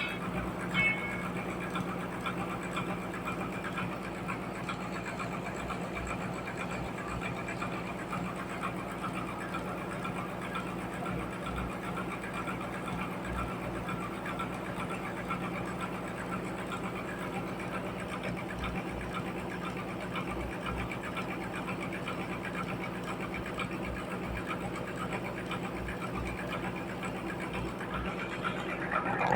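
Sawmill machinery running steadily, a constant engine hum with no break or change in pitch.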